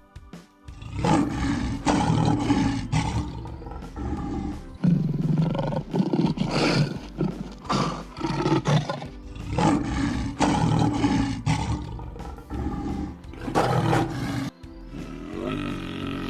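Several loud, drawn-out animal calls from a large animal, one after another with short pauses, over background music.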